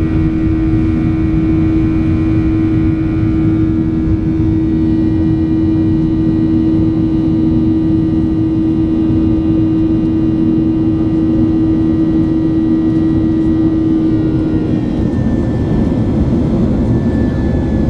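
Boeing 737 jet engines running at high power in the takeoff climb: a loud, steady roar with a strong humming tone and fainter whining tones, the hum changing about fifteen seconds in.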